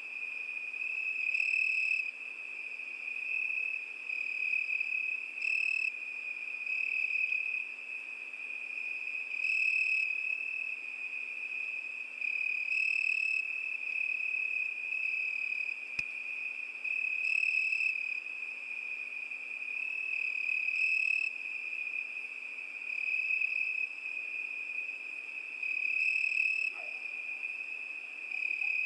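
Crickets chirping: a continuous high-pitched trill held at one pitch, swelling into a louder chirp every few seconds.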